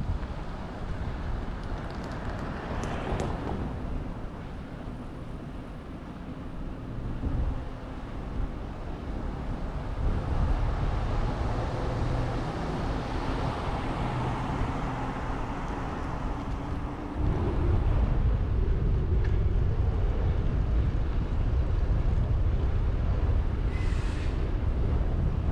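Wind rumbling on the microphone of a moving bicycle, louder from about two-thirds of the way through, with a rushing sound that swells and fades in the middle.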